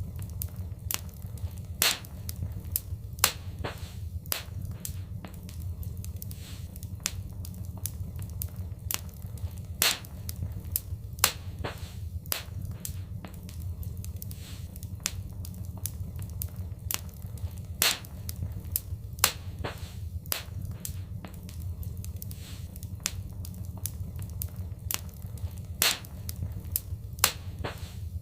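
Wood fire in a fireplace crackling: irregular snaps and pops, a few noticeably louder than the rest, over a steady low rumble of the burning fire.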